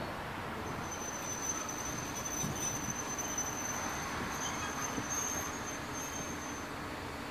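Passenger train hauled by an EP07 electric locomotive at the station: a low rumble with a few faint knocks, and a thin, steady high squeal that starts just under a second in and stops near the end.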